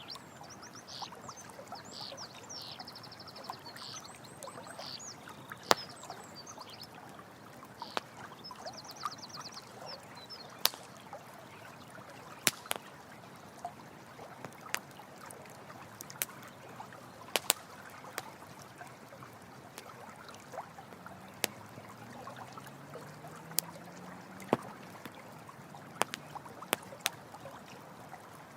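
Campfire crackling with sharp pops every second or two over steady running water. A few high, rapidly pulsed trilling calls come in the first ten seconds.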